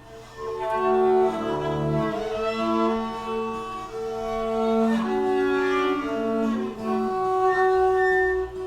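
Instrumental passage of a live band, led by bowed strings: viola and bass holding long notes together, each chord held for about a second before moving to the next.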